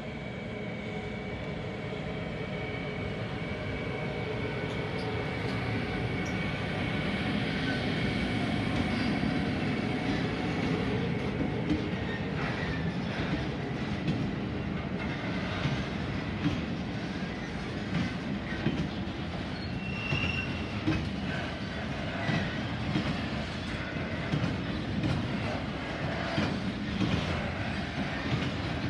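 DB Cargo electric locomotive and a long train of loaded car-carrier wagons rolling past, growing louder over the first several seconds with a steady electric whine. Then the wagons' wheels click repeatedly over rail joints and points, with a brief wheel squeal about two-thirds of the way through.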